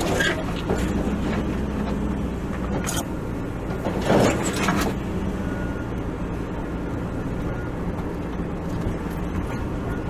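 Four-wheel-drive vehicle driving slowly on a sand track, heard from inside: a steady low engine hum, with a few knocks and rattles from bumps, the loudest about four seconds in.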